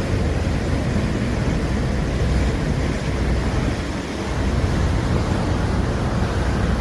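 Steady low rumble of wind buffeting the microphone on a cruise boat under way, with the boat's engine and the rush of water beneath it.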